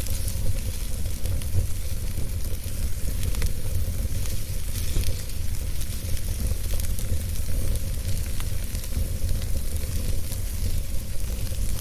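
Wood fire burning in a fireplace: a steady low rumble and hiss with scattered small crackles.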